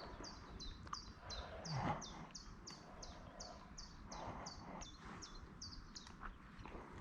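A small bird calling a short, high note over and over, about three times a second, stopping about six seconds in.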